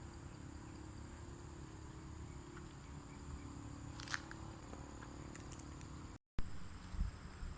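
Outdoor ambience with a steady low rumble on the microphone and a faint, steady high insect drone, broken by a sharp click about four seconds in and a couple of knocks near the end from the camera being handled. The sound cuts out completely for a moment just after six seconds.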